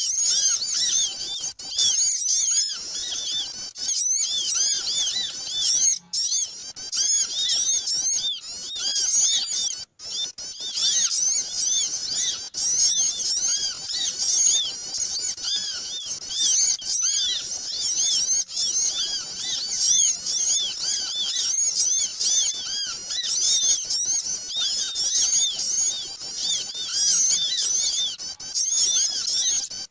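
Dense, continuous chorus of many small birds chirping and chattering over one another, with short arched high chirps several times a second: a noisy small-bird lure call (suara pikat).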